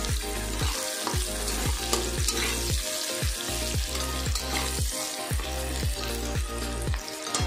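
Sliced onions sizzling in hot oil in a metal karai, stirred with a spatula. Background music with a steady low beat, about two thumps a second, plays over the frying.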